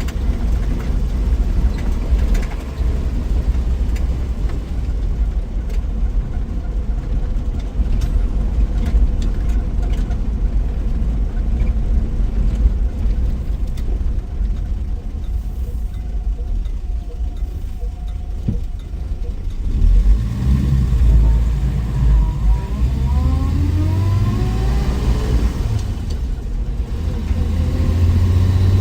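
1963 Willys Wagon's 230 Tornado overhead-cam straight-six running down the road with a steady low rumble. About twenty seconds in it gets louder and its pitch rises as the wagon accelerates.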